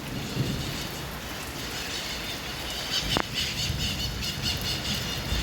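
High-pitched bird calls: many short, squeaky notes repeated rapidly, starting about three seconds in, over a steady background hiss.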